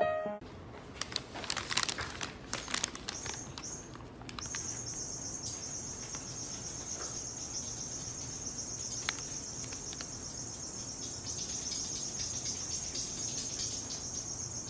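A few seconds of scattered clicks and rustles, then, from about four seconds in, a steady high-pitched insect chirring.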